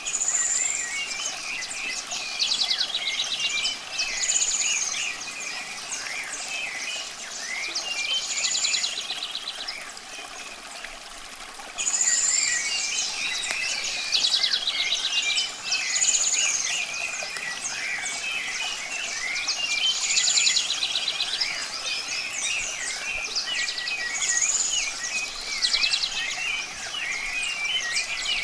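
A chorus of songbirds chirping and twittering, with a high clear call repeating about every four seconds and rapid buzzy trills among them. The whole chorus steps up in loudness about twelve seconds in.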